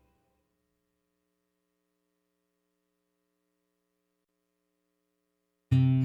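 Near silence with a faint steady hum, broken near the end by acoustic guitar background music starting suddenly.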